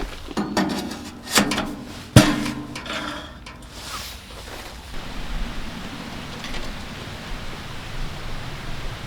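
A few knocks and clatters of things being handled, the sharpest a single hard knock about two seconds in, then a steady rushing noise.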